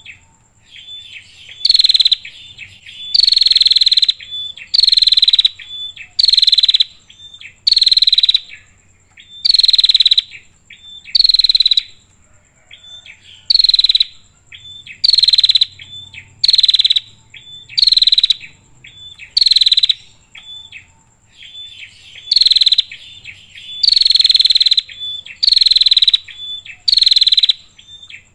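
Female prenjak (prinia) calling over and over: a short, loud, buzzy call that sweeps down, repeated about every one and a half seconds, with a few short thin notes between the calls. A faint steady high whine runs underneath.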